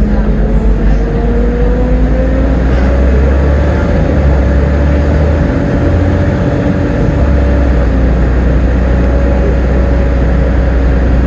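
Volvo B7TL double-decker bus under way: the diesel engine's deep rumble with a whine that rises in pitch over the first few seconds as the bus picks up speed, then holds steady.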